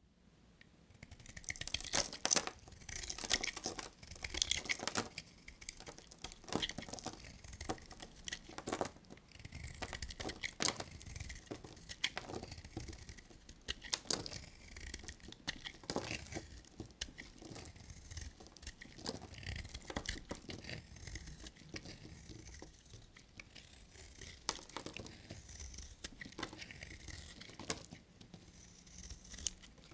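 Knife cutting through bars of dry soap: a dense run of crisp scraping and cracking strokes that begins about a second in and is loudest in the first few seconds.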